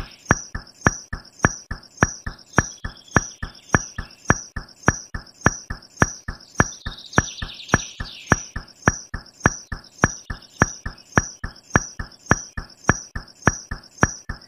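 Steady, even clicking, roughly three and a half sharp clicks a second.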